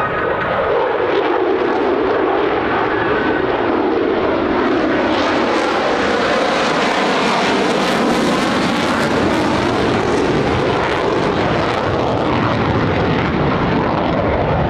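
An F-35A's single Pratt & Whitney F135 afterburning turbofan heard as the fighter flies past, a continuous loud jet roar that builds to its loudest about halfway through and then eases off.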